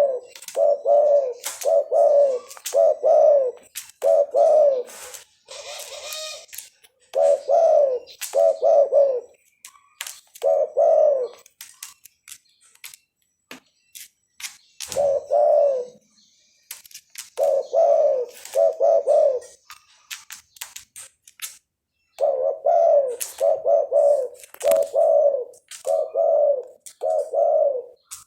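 Tame doves, a domestic ringneck dove and a spotted dove, cooing back and forth. They give runs of several low coo notes with a couple of pauses of a few seconds, over scattered faint high clicks and chirps.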